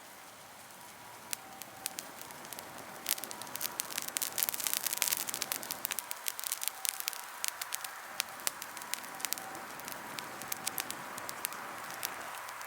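Wood fire crackling in a fire pit, with many sharp pops that come thickest about four to six seconds in.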